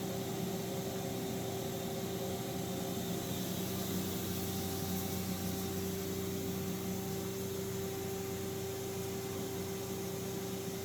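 Matsuura MX-520 CNC vertical machining center idling with its axes at home: a steady hum with a constant mid-pitched tone and a lower tone under a hiss, unchanging throughout.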